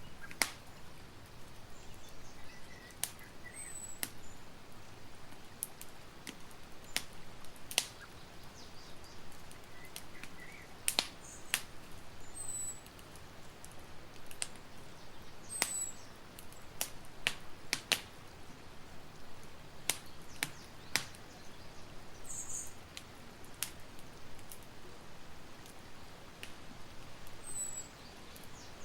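Campfire crackling: irregular sharp pops and snaps over a soft steady hiss. A few short, high bird chirps come now and then.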